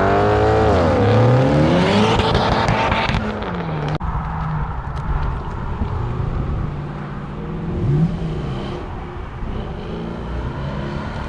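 Performance car engine and exhaust revving, its pitch climbing and falling over the first three seconds. About four seconds in it drops to a quieter, steadier running sound, with one short rev near eight seconds.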